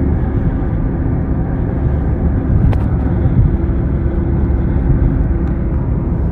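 Steady road and engine noise of a moving car, with a single sharp click a little under three seconds in.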